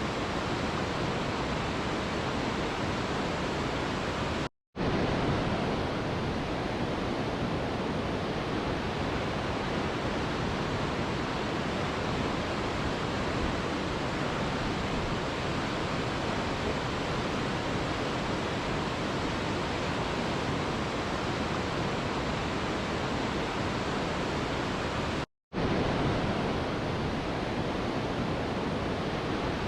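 Mountain river rushing steadily, a dense even roar of white water. The sound drops out completely for a split second twice, once about four and a half seconds in and once near the end.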